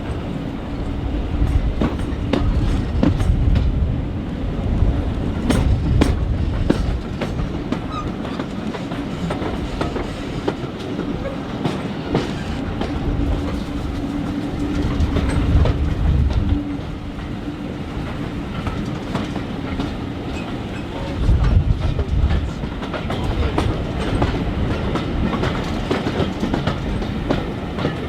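Train running along the line, its wheels clicking and knocking over the rail joints with a steady rumble. A steady hum runs under it for the first half and then stops.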